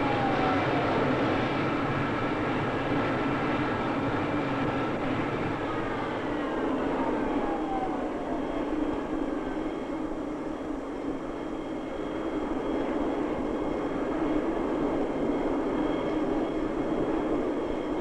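Jet aircraft engines running with a steady rumble and hiss. A whine falls in pitch just at the start and again from about six to eight and a half seconds in.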